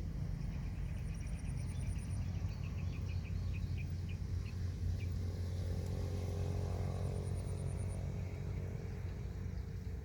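Steady low rumble with small animal calls over it: a high, fast trill comes twice, and a run of chirps slows down and fades over the first five seconds.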